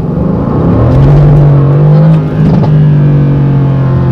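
The Mercedes-AMG GT C's twin-turbo V8 accelerates hard, its note rising in pitch and loudness. About two seconds in there is a brief dip, as at a gear change, and then it pulls on with a steady loud note.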